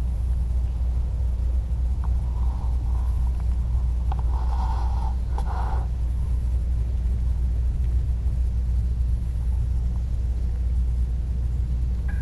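Steady low rumble, likely weather on the small camera's microphone, with a few short turkey yelps about two seconds in and again between four and six seconds.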